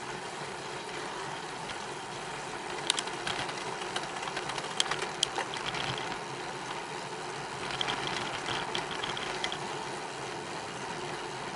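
Bicycle on the move: steady wind and tyre noise, with a few sharp rattles about three and five seconds in and short runs of rapid ticking from the rear hub's freewheel while coasting.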